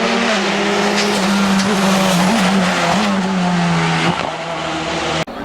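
Hill-climb race car's engine running hard at high revs. Its note holds fairly steady with a few brief blips, then eases off about four seconds in. The sound cuts off abruptly just before the end.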